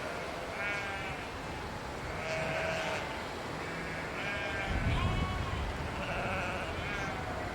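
A flock of sheep bleating, many calls at different pitches following and overlapping one another, with a brief low rumble about five seconds in.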